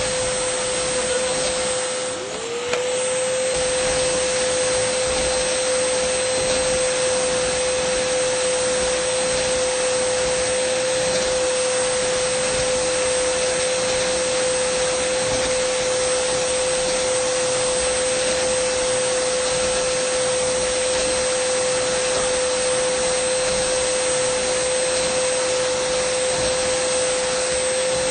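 Dyson vacuum cleaner motor running steadily, a high whine over a rush of air. About two seconds in, its pitch and level dip briefly, then recover.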